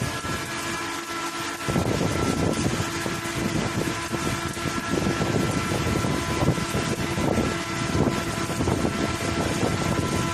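Arc welding on pipe: a steady crackle of the welding arc starting about two seconds in, over a constant machine hum.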